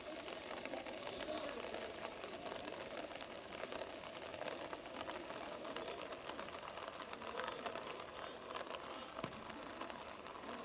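Indistinct, distant voices of rugby players calling out across the field over a steady outdoor background noise.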